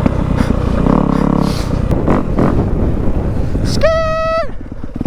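Dirt bike engine running at a low rumble, revving up briefly about a second in. About four seconds in there is a short, loud high-pitched tone lasting under a second.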